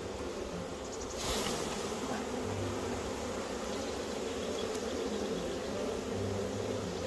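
A mass of honeybees buzzing around an open nuc box, a dense steady hum, with a brief louder burst of noise just over a second in.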